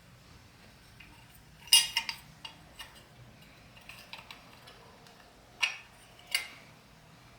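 Metal tools and small metal engine parts clinking and tapping as they are handled, in irregular sharp strikes. A cluster of the loudest clinks comes about two seconds in, a few lighter taps follow, and two more strong clinks come near the end.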